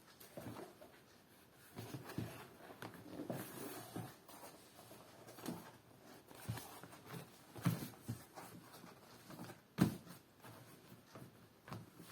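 Handling sounds of a faux-leather cover being test-fitted over a thin plastic motorcycle top case: irregular rustling and scuffing with light knocks, and one sharper knock near ten seconds in.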